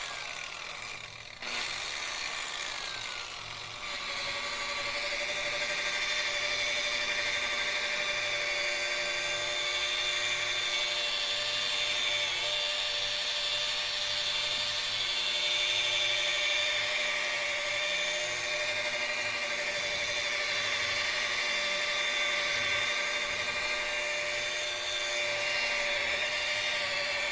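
Electric rotary polisher with a polishing bonnet buffing water-based polishing compound into a wood surface, running with a steady whine. It is lower and uneven for the first few seconds, then runs steadily at full speed.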